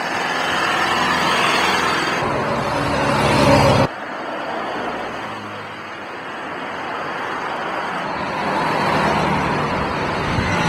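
Vintage car engines running as cars pull away at a rally start, the sound swelling for a few seconds, then breaking off abruptly about four seconds in before another car's running is heard.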